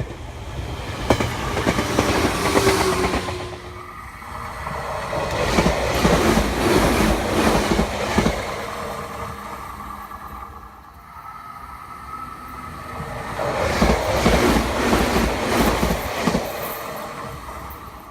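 Meitetsu electric train passing close by, wheels clacking over rail joints, the noise swelling and fading three times before dying away near the end.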